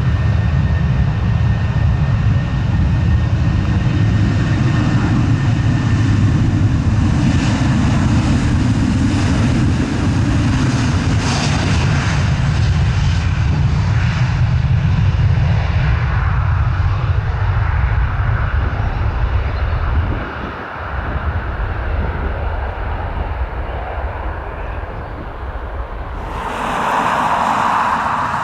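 A passing airliner's engines, a loud deep rumble with rushing hiss that swells in the first half and then fades away. A short burst of hiss comes near the end.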